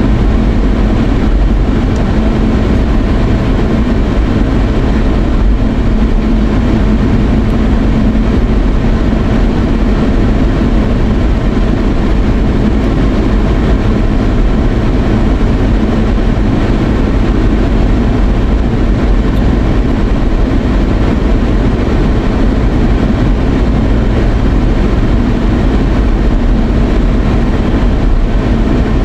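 Steady running noise of a moving vehicle: a loud, even engine and road rumble that does not change.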